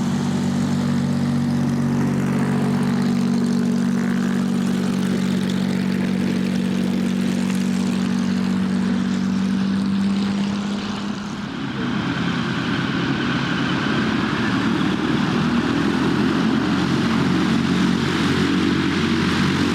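Chance-Vought Corsair's Pratt & Whitney R-2800 Double Wasp radial engine and propeller running with a steady note. About 12 seconds in, the sound turns rougher and fuller.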